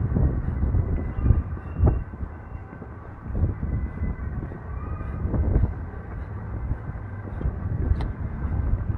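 Strong wind buffeting the microphone in irregular gusts, with a few faint steady high tones behind it.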